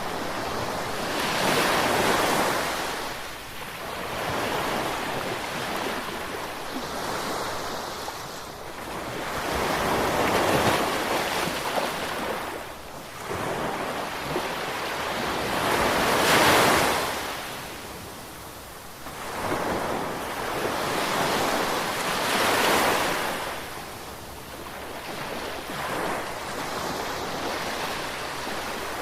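Ocean surf: waves breaking and washing in, the rushing hiss swelling and falling back in surges every five or six seconds.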